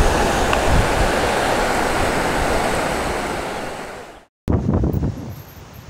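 Fast-flowing river water rushing loudly and steadily, fading out about four seconds in. After a brief cut there is quieter, gusty wind noise on the microphone.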